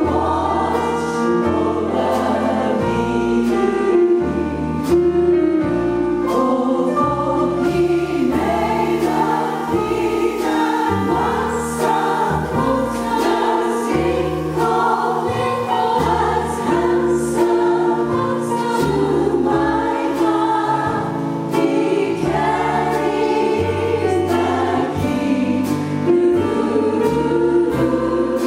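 Jazz chorus singing together over a rhythm section, with bass notes changing underneath and a steady cymbal beat.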